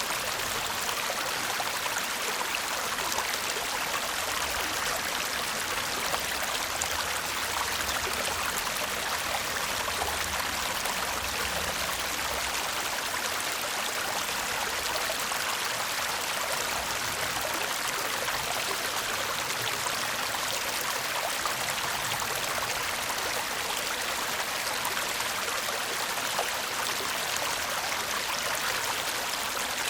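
Shallow brook babbling steadily, an even, unbroken rush of running water.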